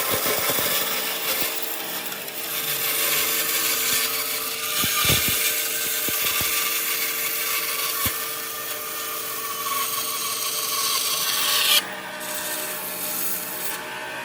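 A power tool working wood: a steady motor hum under a loud, continuous rubbing, rasping noise. The noise drops off sharply near the end.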